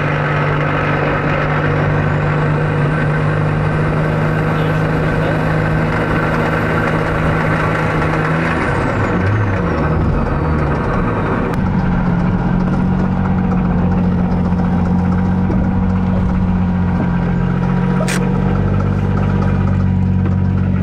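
A 1JZ inline-six engine running steadily. Its note wavers about nine to twelve seconds in, then settles a little higher. There is a sharp click near the end.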